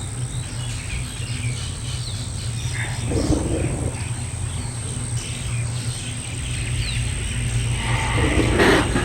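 An animal gives two short, hoarse calls, a few seconds in and again near the end, over a steady low rumble, with faint bird chirps.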